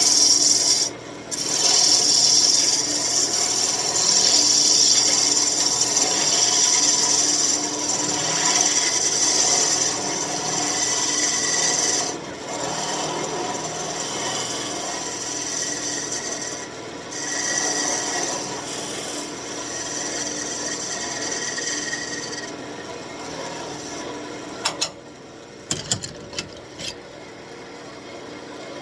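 Roughing gouge cutting a spinning birch spindle on a wood lathe: a steady, loud scraping hiss of the cut, broken by a few brief pauses as the tool comes off the wood. About three-quarters of the way through the cutting eases off, leaving the quieter sound of the lathe running, with a few sharp clicks.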